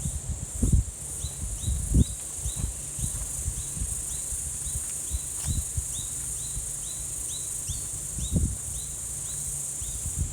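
A steady high insect buzz, with a short falling chirp repeating two to three times a second, and a few low thumps.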